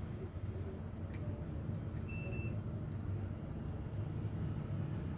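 One short, high electronic beep about two seconds in, over a steady low rumble.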